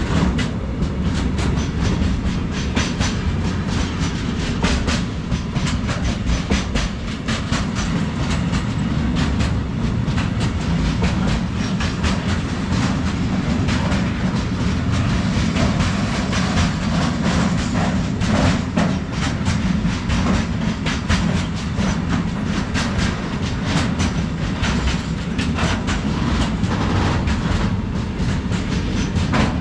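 Freight train wagons rolling past close by: a steady, loud rumble with a rapid, uneven clatter of wheels clicking over rail joints.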